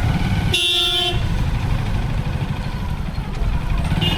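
A vehicle horn honks for about half a second, starting about half a second in, with a second short honk near the end, over the steady low rumble of a moving motorcycle.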